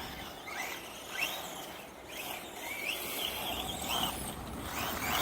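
Electric 1/10-scale RC monster truck motors and drivetrains whining, the pitch sweeping up several times as the trucks accelerate, over a steady haze of rolling noise.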